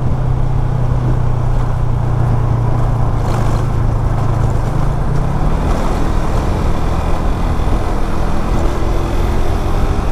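Motorcycle engine running at steady cruising speed under a heavy rush of wind and road noise; the engine note holds steady, then shifts about halfway through.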